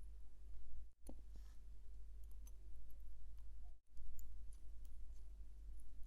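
Faint, sparse small clicks of metal tweezers and tools against watch movement parts during reassembly, over a steady low hum. The sound drops out briefly twice, about a second in and just before four seconds.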